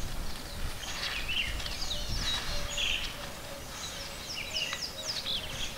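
Several wild birds chirping and whistling in quick, varied calls, over a low rumble.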